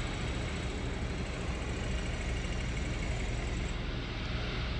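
Steady low mechanical rumble and hum from a standing train, with a faint high whine that cuts off near the end.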